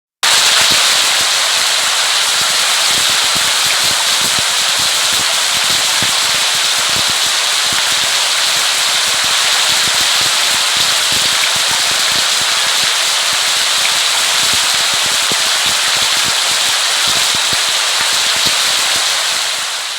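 Steady rain falling, a dense even hiss full of many small drop impacts. It cuts out for a split second at the very start, then runs on unchanged.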